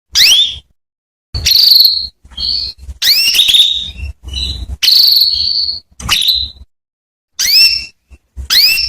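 Female canary calling: a series of short, loud chirps that sweep upward in pitch, about one a second, a few drawn out into longer notes, with silent gaps between.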